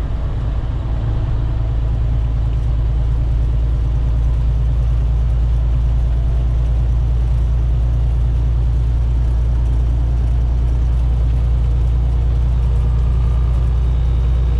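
Semi-truck's diesel engine and road noise heard from inside the cab while driving: a steady low drone that grows a little louder over the first few seconds, then holds.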